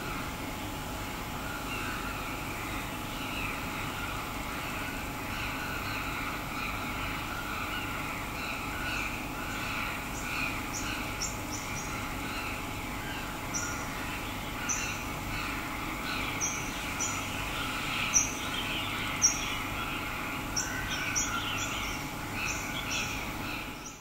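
Small birds chirping, with short, sharp, high chirps coming thickly in the second half over a busier chatter of lower calls, against a steady background hum of distant traffic.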